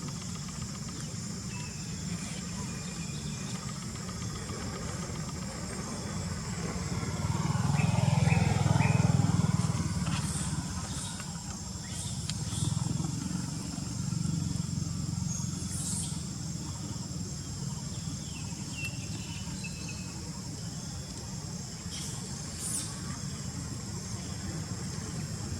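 A motor vehicle passing by: its sound swells and fades between about seven and ten seconds in, with a falling pitch as it goes past. Underneath is a steady low rumble and a constant high hiss, with a few faint clicks.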